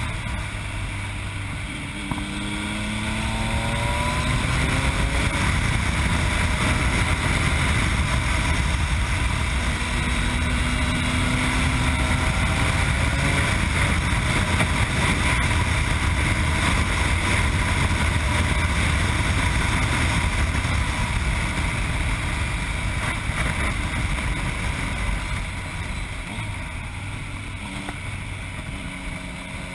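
Yamaha MT-09's three-cylinder engine through an Akrapovic exhaust, heard on board. The pitch rises as it accelerates about two to five seconds in, then the engine runs at speed under heavy wind rush, getting quieter near the end.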